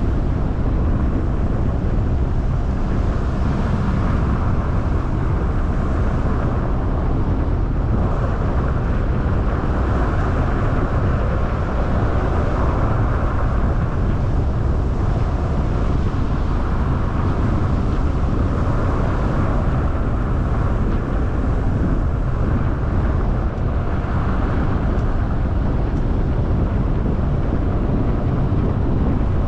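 Steady car driving noise: a low rumble of engine and tyres rolling on the road, unchanging throughout.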